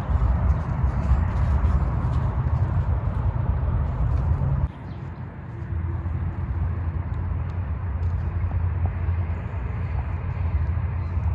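Low rumble of wind and handling noise on the microphone, steady apart from an abrupt drop a little before halfway through.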